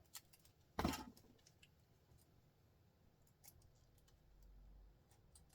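Near silence with scattered faint clicks and one louder click about a second in.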